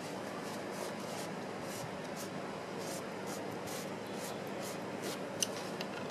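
Faint small clicks and scrapes of an air horn screw being fitted and turned into a Rochester Quadrajet carburetor, over a steady low hiss, with a few sharper metallic clicks near the end.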